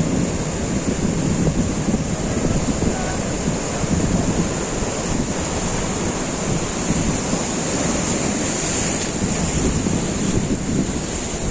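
Surf breaking and washing on a beach, a steady rush of waves, with wind buffeting the microphone.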